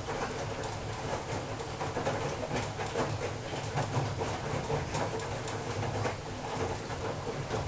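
Washing machine running, its drum turning with a steady low hum and an irregular patter of clicks and knocks.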